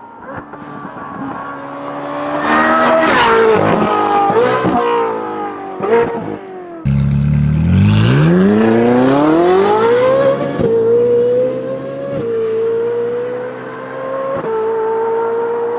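Ferrari 458's naturally aspirated V8 through a titanium valved exhaust with free-flow front pipes, heard from outside the car. It gives a few short revs at first. About seven seconds in it suddenly goes to full throttle, the pitch climbing steeply, then shifts up quickly three times, the pitch dipping slightly and climbing again each time.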